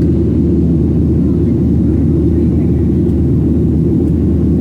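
Steady cabin noise of a Boeing 737-700 climbing after takeoff: its CFM56-7B turbofan engines and the airflow over the fuselage make a loud, even, low drone.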